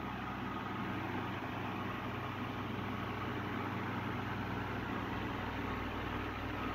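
1950s–60s GEC 12-inch oscillating table fan running on its high speed: a steady electric-motor hum under an even rush of air from the blades, very quiet for a fan.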